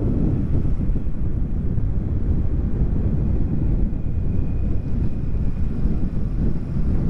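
Wind buffeting the microphone: a loud, uneven low rumble without any steady pitch.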